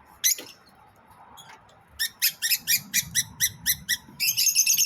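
Lovebirds calling: one short call, then a rapid run of sharp, high chirps about six a second from about two seconds in, turning into dense chattering near the end.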